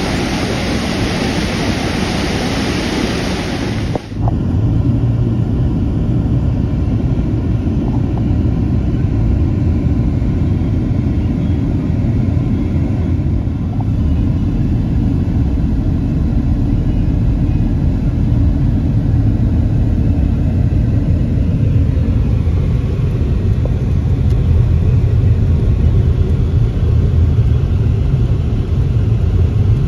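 Steady roar of a large waterfall's falling water, cut off about four seconds in by a steady low rumble of a car's engine and road noise.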